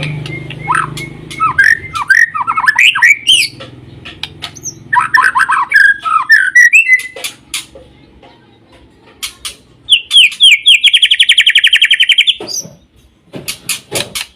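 White-rumped shama (murai batu) singing: varied whistled phrases sliding up and down, broken by short pauses. About ten seconds in comes a fast, even trill lasting about two seconds, followed by a few sharp clicks.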